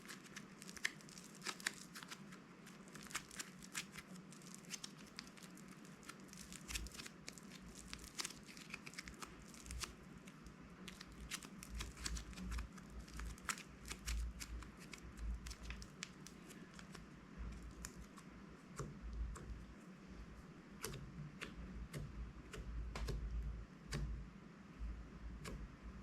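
Slime being worked by hand, giving off a steady run of irregular small crackling, crinkling clicks, with soft low thuds from pressing coming in now and then, most around the middle and near the end.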